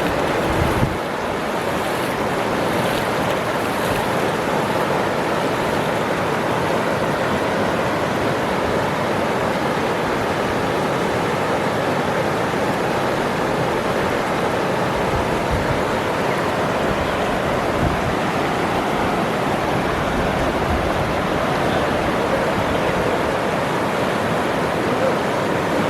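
Waterfall, water pouring and splashing in a steady, loud rush.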